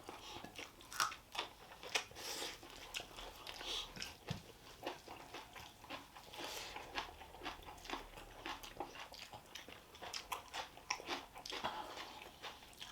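People chewing and biting food, with many irregular short clicks of mouth and teeth.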